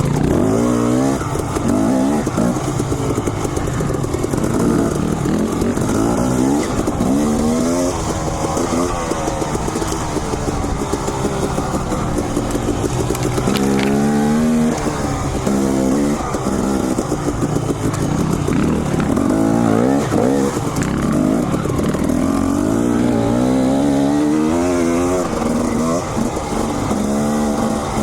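Dirt bike engine under load, its revs climbing and dropping over and over as the throttle is worked along the trail.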